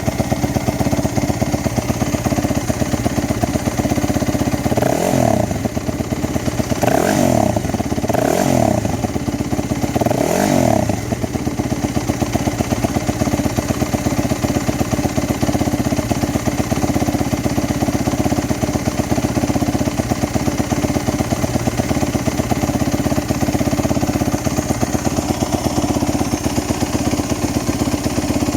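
2015 Yamaha WR250F's fuel-injected 250 cc single-cylinder four-stroke engine idling steadily while warming up after a cold start, blipped briefly four times about five to eleven seconds in, each rev rising and dropping back to idle.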